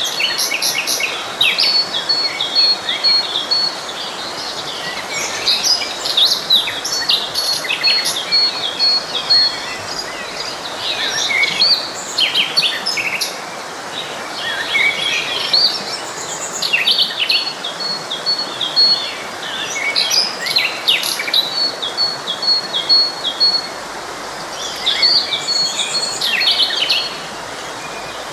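Several songbirds chirping and singing in quick, overlapping phrases, with a high note pulsing evenly at intervals, over the steady rush of a flowing forest stream.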